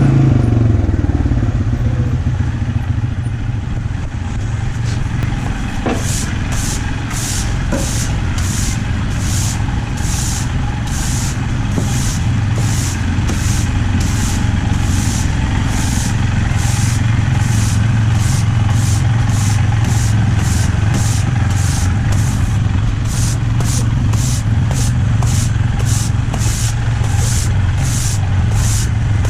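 An engine idling steadily with a low hum. From about six seconds in, a high hiss pulses over it about one and a half times a second.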